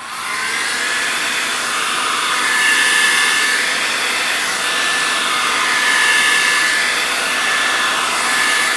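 Handheld craft air dryer switched on at the start, spinning up and then blowing steadily: a loud rush of air with a thin high whine over it.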